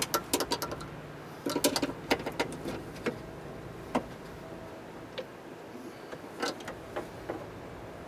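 Irregular metallic clicks, knocks and short rattles of a car door's window regulator parts and hand tools being handled and fitted. They come in small clusters, then as single knocks spaced a second or more apart.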